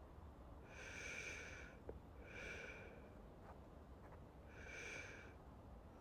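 Soft, slow breathing close to the microphone: three quiet breaths, about two seconds apart.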